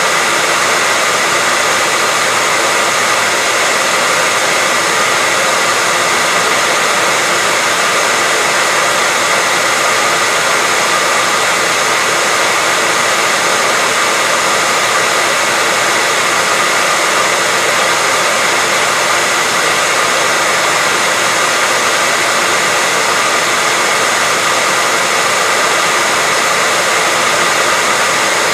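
Hair dryer blowing steadily, a constant rushing noise with a faint steady whine from its motor.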